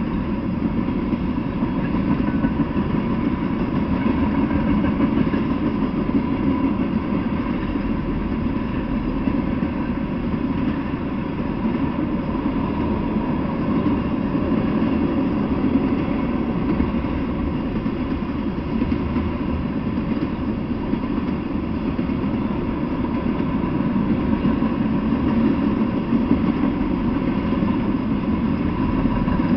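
Freight train of railroad tank cars rolling past, the wheels rumbling steadily on the rails.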